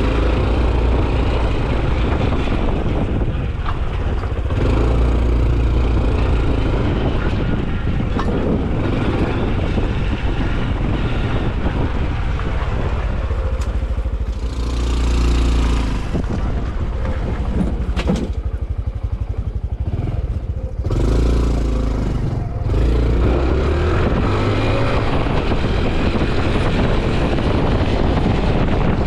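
Honda CT125 Hunter Cub's 125 cc single-cylinder four-stroke engine running on the road, with its exhaust note and wind rush on the helmet or bike camera.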